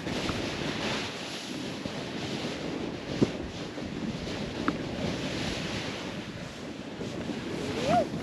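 Snowboard riding through fresh powder: a steady rushing hiss of snow under the board, with wind on the microphone. A few sharp clicks are heard along the way, and a short voice sound comes near the end.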